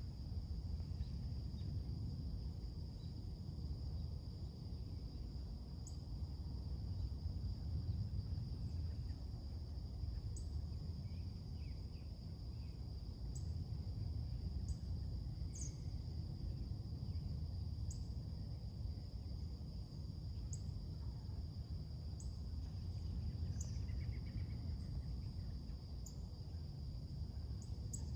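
Summer morning soundscape: a steady high drone of crickets over a low, even background rumble, with short high bird chirps every couple of seconds and a few fainter bird calls.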